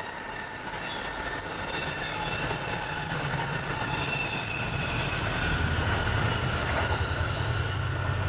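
Electric train running on rails, with thin high squealing tones over the running noise and a low rumble that grows about halfway through as the sound gets louder.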